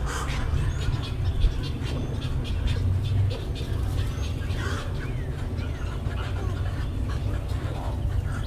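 Wading-bird rookery: egrets and herons giving scattered short croaks, squawks and calls over a steady low rumble.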